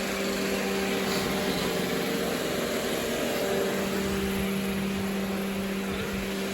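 Robot vacuum running, a steady motor hum over the hiss of its suction.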